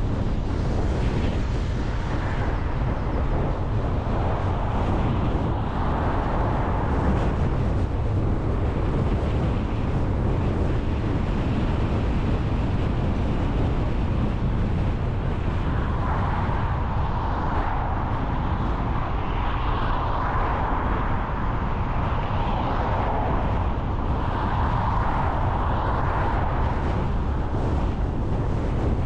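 Car on the move: steady road and wind noise with a heavy low rumble, swelling several times in the second half.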